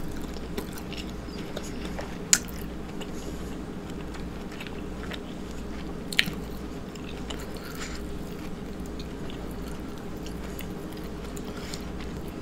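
Close-miked chewing of a mouthful of boiled lobster claw meat with onion. Small mouth clicks are scattered through it, with two sharp loud clicks about two seconds in and about six seconds in, over a steady low hum.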